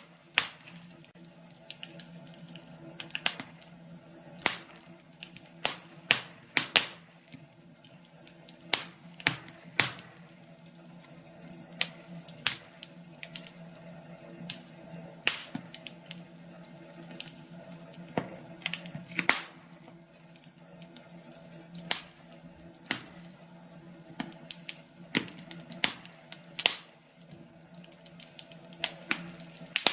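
Firewood burning in a fireplace, crackling with irregular sharp pops and snaps, a few a second, over a faint steady hum.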